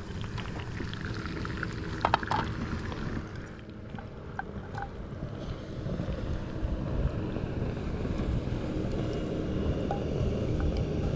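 Steady low wind rumble on the microphone, with a few light clicks about two seconds in.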